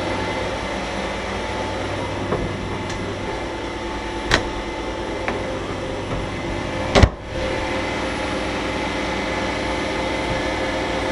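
Kärcher MV 6 P Premium wet-and-dry vacuum cleaner running steadily, with a few sharp knocks against hard surfaces. The loudest knock comes about seven seconds in, and the motor sound dips briefly right after it before steadying again.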